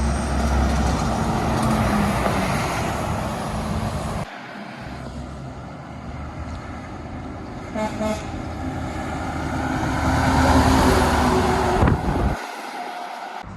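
Heavy trucks driving past, with engine and tyre noise swelling and fading, and one short horn toot about eight seconds in. The sound changes abruptly twice, as the clips cut.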